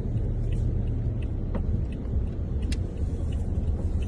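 Car driving, a steady low rumble with a few sharp clicks.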